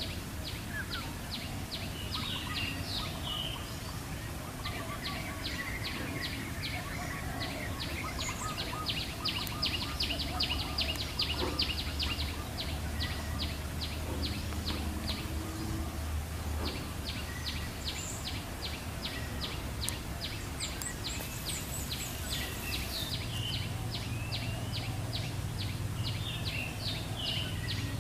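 Small wild birds chirping in short, scattered calls. Under them runs a steady, rapid ticking of about five clicks a second, in long runs that break off briefly a few times, with a low hum in the background.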